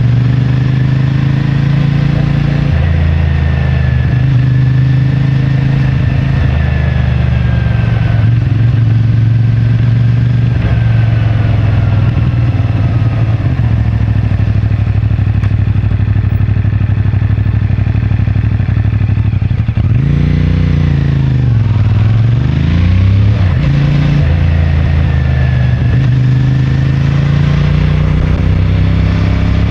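CFMoto 450MT's 449 cc parallel-twin engine running through its stock exhaust at steady riding revs. About two-thirds of the way through the revs fall and then climb again before settling back to a steady note.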